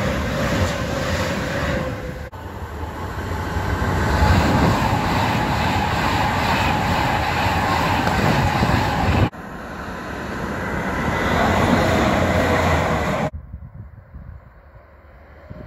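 An electric Class 390 Pendolino express passes close below at speed: a loud, steady rush of wheels and air with a faint whine. The sound breaks off abruptly twice, and near the end it drops to a much quieter hush.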